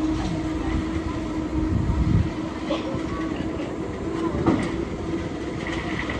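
Railway train running: a low rumble under a steady hum, with a few short knocks, the sharpest about four and a half seconds in.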